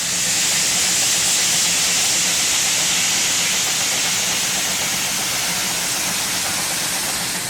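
Steam venting with a steady, loud hiss, over a faint low hum; it cuts off abruptly at the end.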